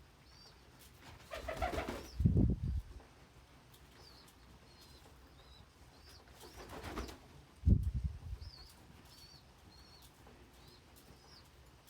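Pigeons flapping their wings in two short flurries, one about two seconds in and one around seven to eight seconds, each ending in a loud low thump. Faint, short, high peeps repeat throughout.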